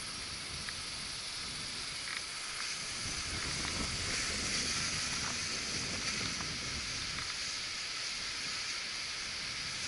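Wind buffeting the microphone in uneven low gusts, over the thin, high hiss of a small quadcopter's motors and propellers in flight; the hiss swells a little around the middle.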